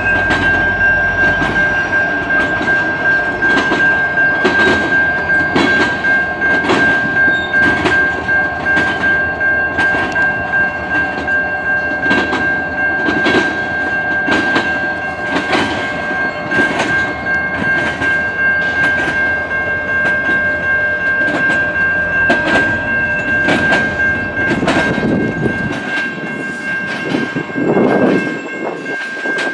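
Freight train rolling past, its wheels clacking over rail joints about once a second, with a steady high-pitched whine from the wheels. The low rumble drops away a few seconds before the end.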